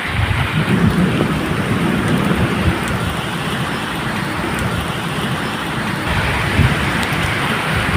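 Steady medium rain falling, a continuous hiss with scattered drop ticks. Low rumbles of thunder swell in the first second or so and again near the end.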